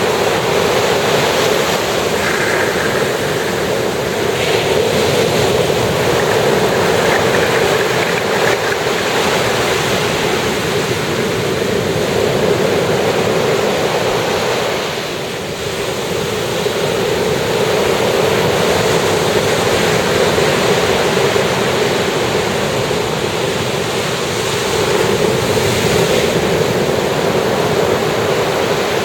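Sea surf washing onto a beach: a continuous rushing of breaking waves that swells and eases, with a short lull about halfway through.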